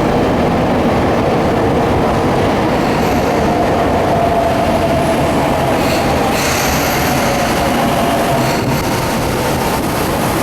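Sotetsu 8000 series electric train pulling into the station, the wheels and running gear sounding steadily with a held tone that falls slightly in pitch as it slows. A brief hiss comes in about six seconds in.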